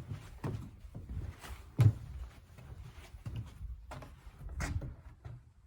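Footsteps: irregular dull thumps about every half second to second, the loudest near two seconds in.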